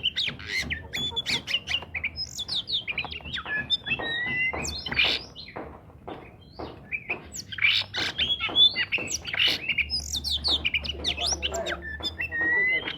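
Oriental magpie-robin (kacer) singing continuously in full voice, a fast, varied stream of short sweet whistles that slide up and down mixed with harsh, squawky chattering notes.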